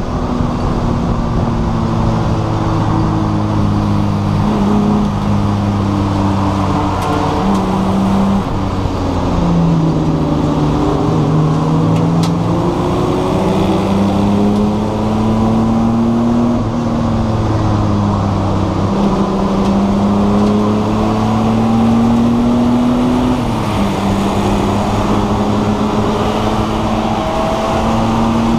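Race car engine heard from inside the stripped cockpit at speed, its pitch climbing slowly under throttle and dropping back several times, most sharply about a third of the way in and again near the end, with steady road and wind noise underneath.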